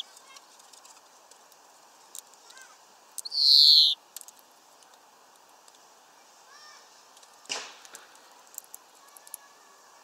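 Small birds chirping faintly at a feeder. About three seconds in, a loud hissing rush lasts under a second, and a sharp knock comes about seven and a half seconds in.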